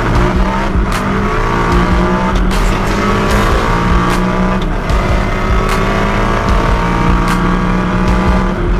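High-performance car engines at full throttle, several overlapping, their pitch climbing and resetting again and again as they accelerate flat-out through the gears, with short sharp cracks scattered through.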